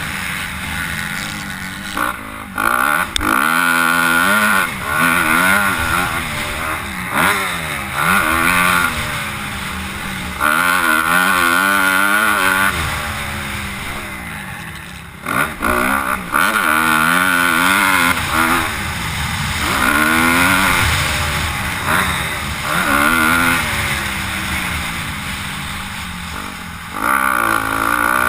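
Several four-stroke motocross bikes riding a track, their engines revving up and falling away again and again with gear changes, overlapping one another.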